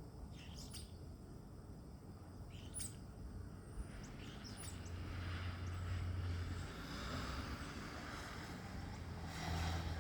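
A songbird, which the uploader takes for a European starling, giving several short, sharply sweeping whistles, heard as its imitation of an ambulance siren. A low rumble rises under it in the middle and near the end.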